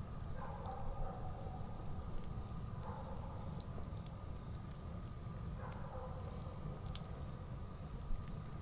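Wood campfire burning, with scattered crackles and pops over a low steady rumble. A faint call recurs about every three seconds in the background.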